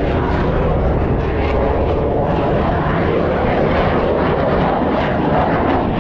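Aircraft engine noise from a low, close pass: a loud, steady rush that holds throughout.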